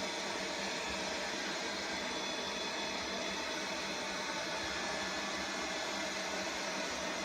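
Steady, unchanging noise with a faint hum running through it, like a machine or fan running continuously.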